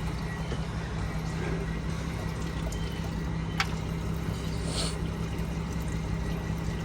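Engine coolant trickling and pouring out of a car radiator as it drains, over a steady low hum, with a single sharp click about three and a half seconds in.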